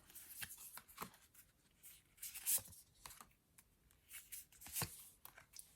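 Tarot cards being handled on a table: faint scattered rustles and light taps, with one louder rustle about two and a half seconds in.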